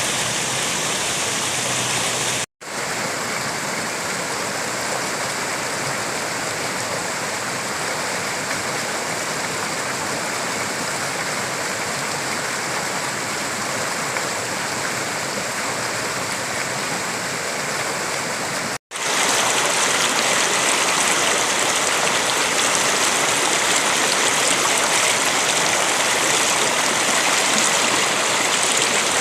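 River water flowing with a steady rush. It cuts out briefly twice, and after the second break, about two-thirds of the way in, the rush is louder and brighter.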